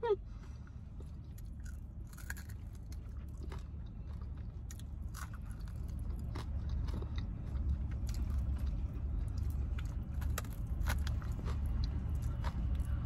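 A person chewing and biting food close to the microphone, with scattered small clicks and crunches, over a steady low hum.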